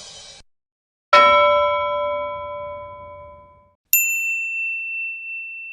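Two struck metal sound effects. First a metallic clang whose bell-like, uneven ring dies away over a couple of seconds, then a single bright, high ding that rings on steadily and ends abruptly.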